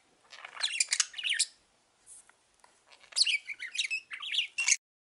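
Pet budgerigars chirping and chattering in quick high notes, in two spells with a short lull between them. The sound cuts off suddenly near the end.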